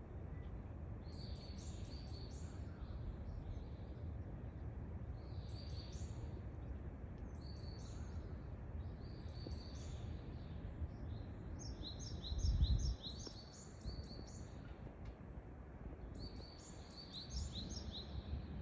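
Small birds chirping in repeated clusters of short, high notes over a steady low background rumble, with a brief louder low bump about two-thirds of the way through.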